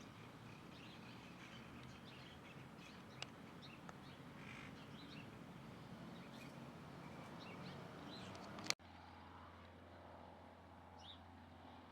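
Birds chirping and calling, many short high notes over a faint outdoor background. About three-quarters of the way through, a sharp click cuts to a quieter background with a steady low hum and a few more chirps.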